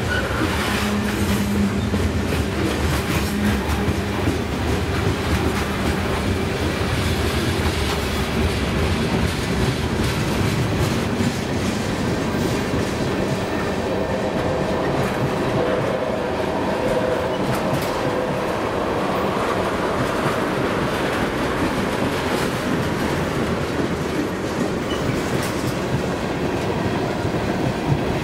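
Freight train's covered hopper and tank cars rolling slowly past: a steady rumble of steel wheels on rail with clickety-clack as the trucks cross rail joints.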